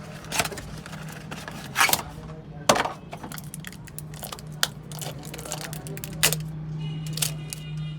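Sharp metallic clinks and knocks of tools being handled and set down, about six in all, over a steady low hum.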